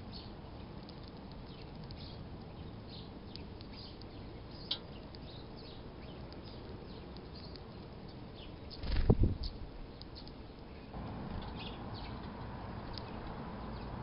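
Small garden birds chirping with short, high calls scattered throughout, over a faint outdoor hiss. A brief low thump about nine seconds in is the loudest sound.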